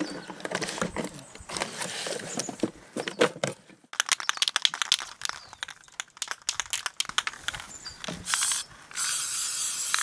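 Rapid metallic rattling and clicking for most of the time, typical of an aerosol spray-paint can being shaken, then spray paint hissing from the can: a short burst about eight seconds in and steady spraying from about nine seconds.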